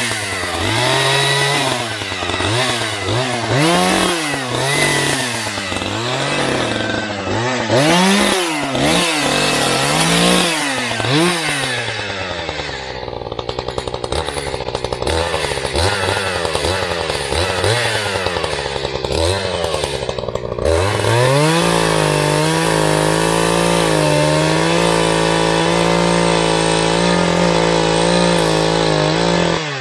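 Echo CS590 Timberwolf two-stroke chainsaw being revved, its throttle blipped up and down about once a second for the first dozen seconds. It then runs lower and unevenly, and about 21 seconds in it rises to steady high revs held to the end.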